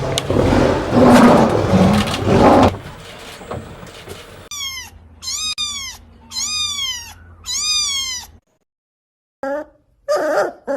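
A cat meowing four times in high, falling calls, after a loud, noisy opening sound of about two and a half seconds. Two lower, shorter calls follow near the end.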